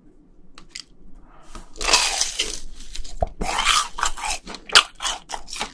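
Close-miked crunching and chewing of crispy fried food, starting about two seconds in, with many sharp crackles of the crust breaking.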